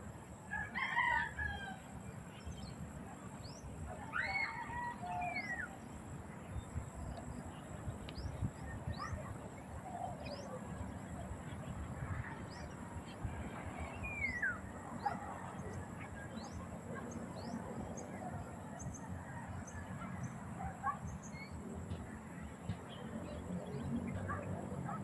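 A flock of birds calling: many short, high, falling chirps repeating throughout, with a few louder, longer calls about a second in, around four seconds and around fourteen seconds, over a steady low rumble.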